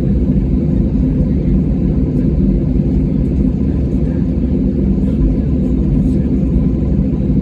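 Steady low rumble of an airliner's jet engines heard inside the passenger cabin, loud and even, with no changes in pitch or level.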